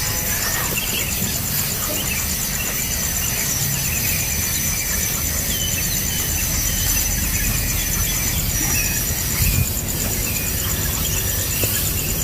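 Nestlings chirping in short, high, scattered calls, over a steady high-pitched insect trill and a low rumble.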